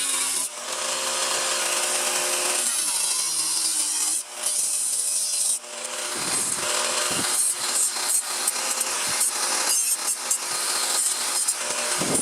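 Power tool working sheet steel for a replacement reinforcement panel, running continuously with its motor note wavering under load. It dips briefly about half a second, four and five and a half seconds in. In the second half it turns into rougher, broken strokes.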